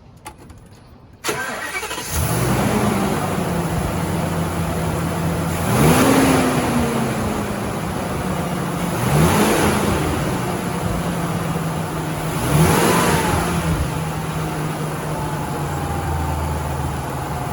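Ford F550 truck engine being cranked over by the starter, catching about two seconds in and settling to a steady idle. It is then revved three times, each rev rising and falling back to idle.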